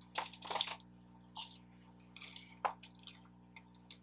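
Faint wet chewing and mouth smacks, in several short bursts, from someone eating fast food close to the microphone.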